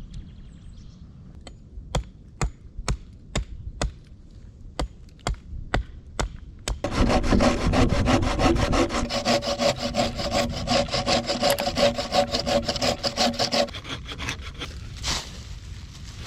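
A series of sharp knocks on wood about twice a second, then a hand saw cutting wood in quick, steady strokes for about seven seconds before it stops.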